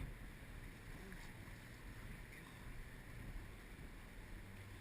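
Steady wind rumbling on the microphone, a low, fluctuating buffeting.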